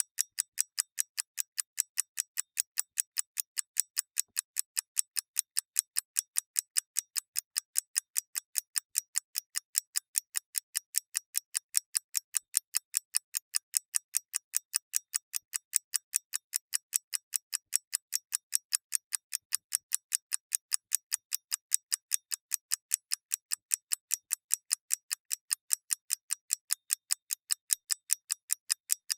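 Mechanical clockwork ticking: rapid, even, crisp ticks, several a second, keeping a steady beat.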